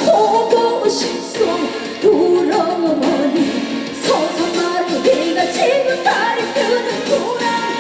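Live concert music: a band playing with a melody line that bends and holds long notes.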